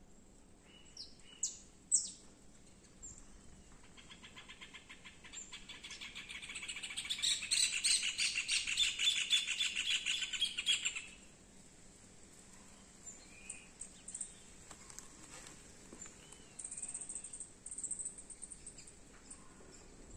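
Wild birds calling: a few short high chirps, then a fast, evenly pulsed trill that grows louder over several seconds and stops sharply about eleven seconds in, followed by scattered faint chirps.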